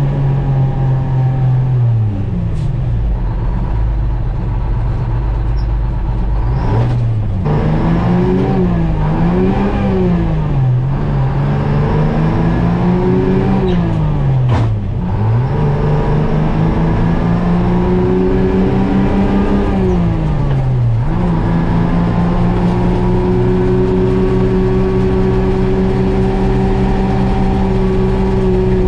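GMC Crackerbox cabover semi's two-stroke Detroit Diesel V engine under load. The revs climb and drop sharply several times as the truck shifts up through the gears, then hold steady and high.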